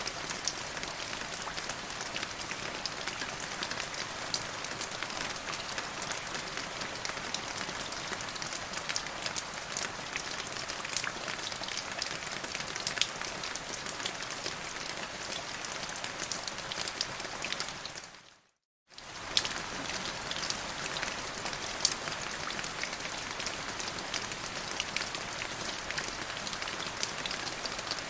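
Steady rain falling, with many individual drops ticking through the even hiss. About two-thirds of the way through, the sound fades out briefly to silence for under a second and then comes back.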